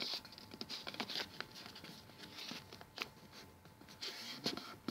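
A4 paper being folded and creased by hand: scattered crackles and rustles with short clicks as the sheet is pressed flat, one sharper click about three seconds in.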